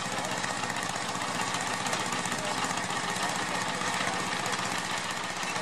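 Antique tractor engine running hard under load while pulling a weight sled, a steady, fast, even rhythm.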